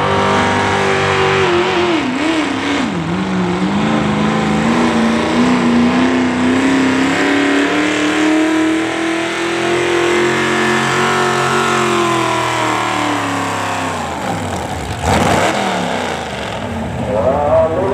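Competition pulling vehicle's engine running at full throttle under load down the pull track. Its pitch dips about two seconds in, holds high, then sags as the run slows near the end, and a sudden loud burst of noise follows.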